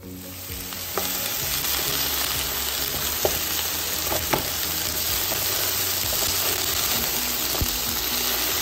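Washed taro root slices hitting hot oil with ajwain seeds in a nonstick pan: a loud, steady frying sizzle that builds over the first second, with a few sharp clicks while the slices are stirred with a silicone spatula.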